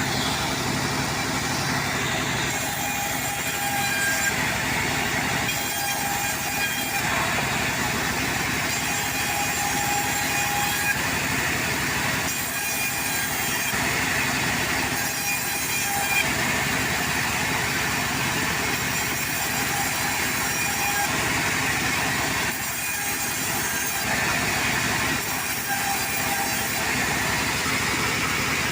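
Portable sawmill running and sawing through wood, a steady machine noise with faint high tones that come and go every few seconds.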